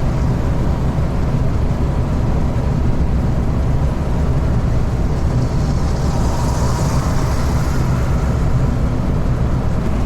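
Scania truck's diesel engine and road noise, a steady low rumble while cruising, with a brief higher hiss a little past halfway through.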